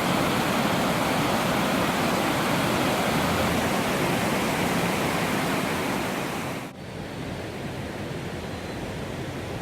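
A low, wide waterfall rushing with a loud, steady noise of falling water. About two-thirds of the way through it drops suddenly to a quieter rush.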